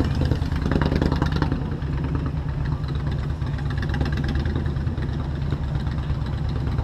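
Motorcycle engine idling steadily at an even pitch, with a brief clatter about a second in.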